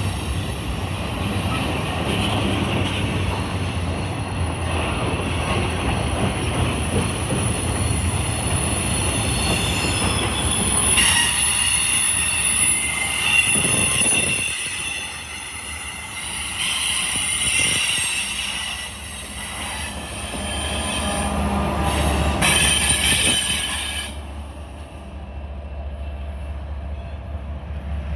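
Railroad cars of a passing freight train rolling over the track with a low rumble and high wheel squeal that comes and goes, the squeal dying away near the end while the rumble continues.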